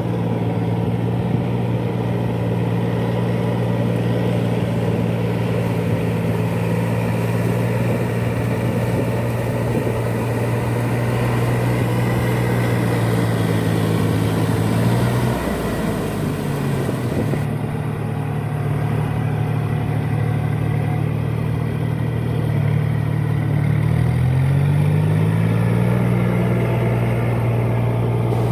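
Four-wheel paddy-field tractor engine running steadily under load. Its pitch sags and recovers twice, about halfway through and again near the end.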